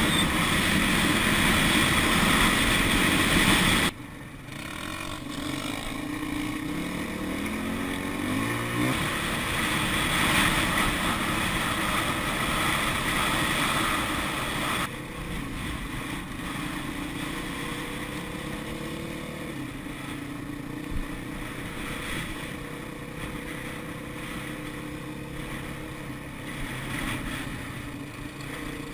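Dirt bike engine running while being ridden, with two abrupt cuts in the sound, about four and fifteen seconds in. The engine revs up with a rising pitch between about six and nine seconds in, and runs quieter and steadier after the second cut.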